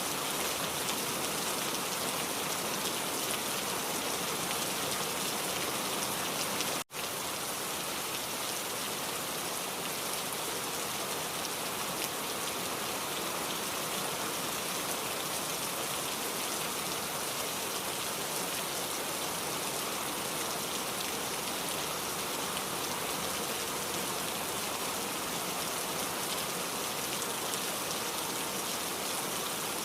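Steady rain falling, an even hiss of drops. It cuts out for an instant about seven seconds in, then carries on unchanged.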